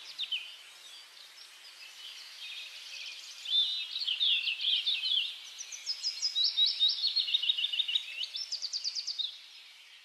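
Birds chirping in quick series of high notes and trills, loudest from about three seconds in until near the end.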